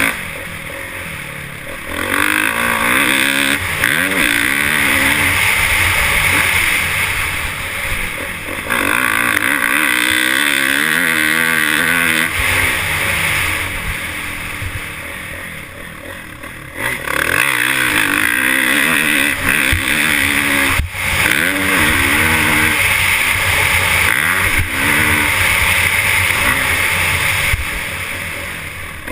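Dirt bike engines revving, the pitch climbing and falling again and again as the bikes race. Loud passes alternate with quieter stretches every few seconds.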